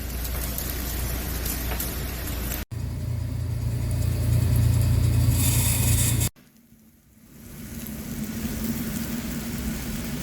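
Wood-fired chicken rotisserie roaster at work: a steady low rumble with hiss on top, cut into three short clips. The rumble is strongest in the middle clip, then drops away briefly after a cut and builds back up.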